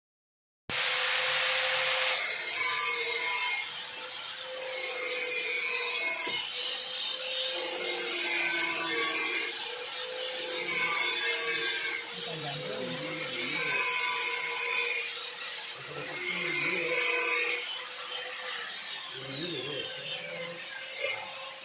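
A power tool motor running steadily with a high whine, its sound swelling and easing about every two seconds.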